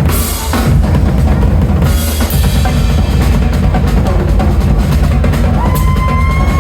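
Drum kit played hard, with heavy bass drum and snare fills and cymbal crashes right at the start and again about two seconds in. Near the end a held high note comes in over the drums.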